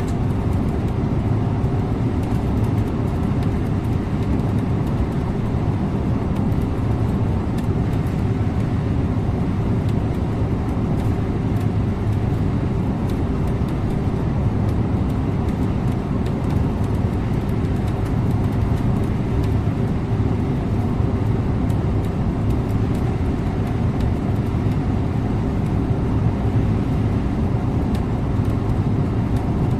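Scania InterLink bus driving at a steady pace: a constant low engine drone mixed with road and tyre noise, with no gear changes or changes in revs.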